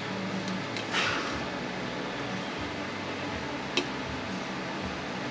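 Steady background hiss and hum with a few light metallic clicks, two of them standing out about a second in and near the end, as transmission parts are handled.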